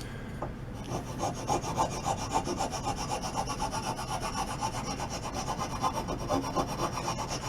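Coarse side of a rasp scraping across hard walnut in steady, rapid strokes, starting about a second in, taking the wood down to shape.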